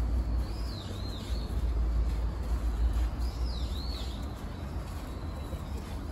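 A bird calling twice, about three seconds apart, each call a high, wavering whistle that dips and rises twice, over a steady low rumble.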